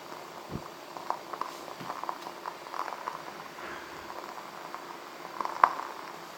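Wooden-wick candle crackling, a steady run of small pops and ticks with one sharper pop near the end.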